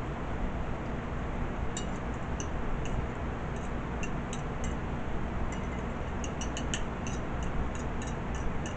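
Close-miked chewing of crispy fried chicken: a run of sharp little crunches and crackles starting about two seconds in, over a steady low background rumble.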